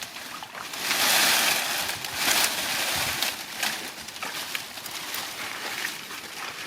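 Shallow field water splashing and sloshing as hands grab for fish in the mud. There is a big splash about a second in, another just after two seconds, then smaller scattered splashes.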